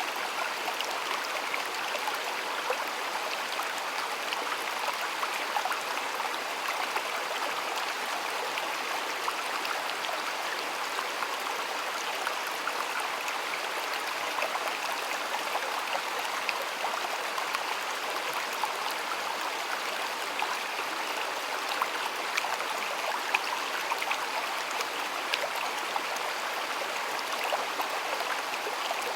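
A shallow stream flowing steadily, a constant rushing and babbling of water with many small splashes.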